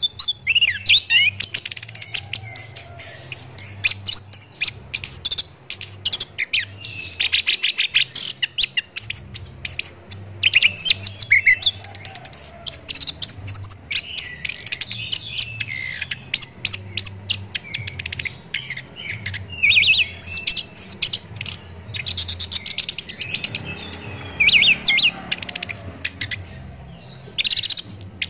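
Chestnut-capped thrush (anis kembang) singing without pause: a fast, varied run of high chirps, trills and whistled phrases, with a faint low hum underneath.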